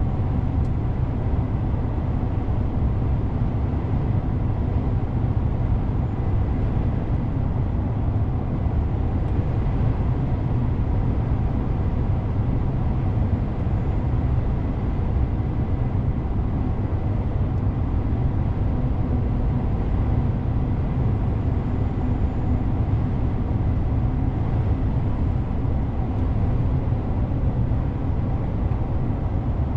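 DAF CF 450 truck driving along at a steady pace: even engine and road rumble with no gear changes or braking standing out.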